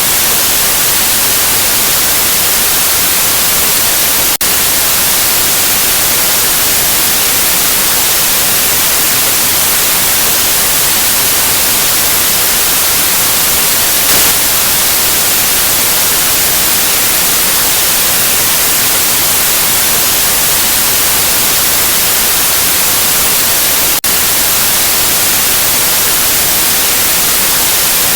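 Steady white noise: an even hiss spread evenly across the whole range, brightest in the highs, with two split-second dips, one about four seconds in and one near the end.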